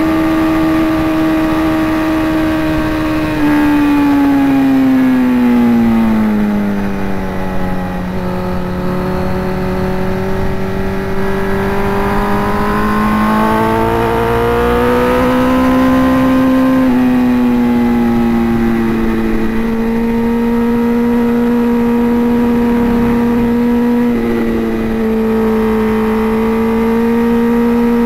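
Sport motorcycle engine at high revs on a racetrack, heard from the rider's helmet camera with wind rumbling on the microphone. The note holds steady, sinks in pitch about three seconds in as the bike slows, climbs again gradually, dips once more and settles into a steady pull.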